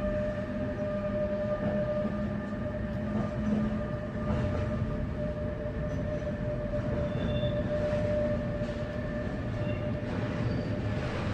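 Container freight train pulling away over the points, its wagons rumbling steadily under a held high tone. A few short, higher squeaks come in about halfway through.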